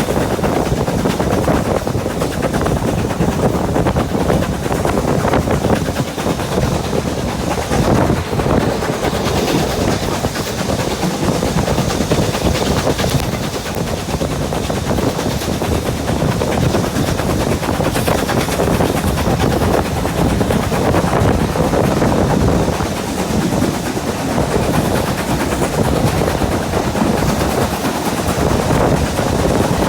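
Steam locomotive working hard, with a quick, unbroken run of exhaust beats mixed with the clatter of the train running.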